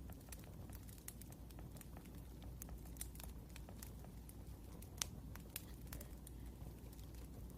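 Wood fire crackling: irregular small pops and snaps over a low steady rumble, with one sharper pop about five seconds in.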